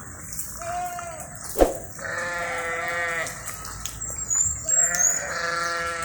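Livestock bleating three times: a short call, then two longer wavering calls. A sharp knock comes about one and a half seconds in, just before the second call.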